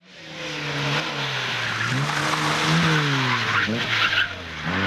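Competition car engine revving hard, its pitch climbing and dropping several times as it goes through gears or lifts off, over loud tyre and road noise. The sound fades in over the first half second, and the hiss thins out about four seconds in.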